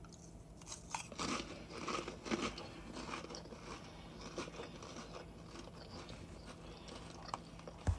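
A person biting into and chewing crisp seasoned crackers: irregular crunches, densest in the first few seconds, then softer chewing with a few small clicks.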